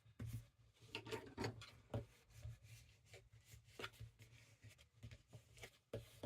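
Paper rustling and rubbing in short, irregular strokes as a glued paper pocket is handled and pressed into place on a paper-bag page.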